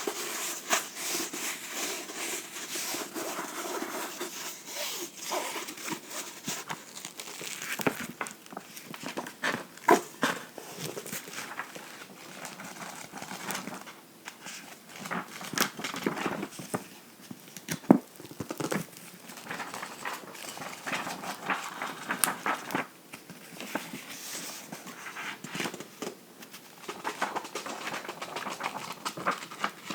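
Close-up book sounds: fingernails scratching and tapping on a book's cover and pages, an irregular string of sharp taps over scratchy rustling, with the loudest taps about ten and eighteen seconds in.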